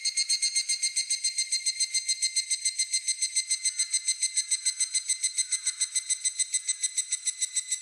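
Higurashi (evening cicada) calling: a fast, even run of high ringing pulses, about seven a second, that starts suddenly and carries on steadily.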